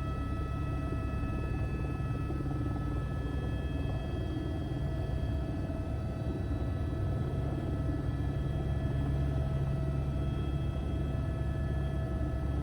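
Helicopter in flight during a landing approach: a steady low, rapidly pulsing rotor rumble with a steady high turbine whine above it.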